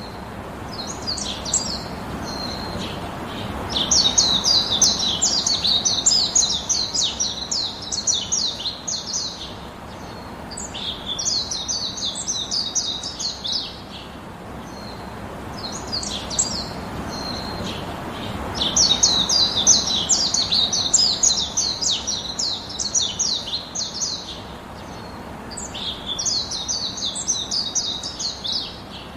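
Baya weaver song: bouts of rapid, high chattering chirps, each lasting a few seconds and repeated after short pauses, over a steady low background hiss.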